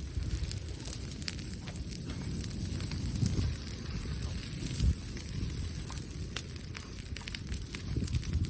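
Wood fire crackling, with scattered sharp pops and snaps over a low rumble that swells twice.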